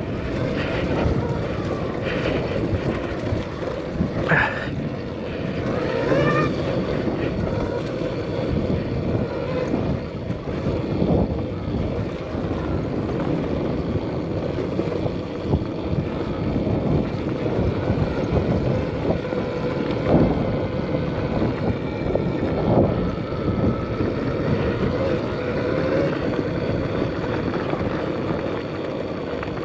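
Arctic Leopard XE Pro electric dirt bike being ridden, with wind buffeting the microphone over the steady hum of the motor and the tyres on the trail. A few short knocks stand out, at about 4, 20 and 23 seconds in.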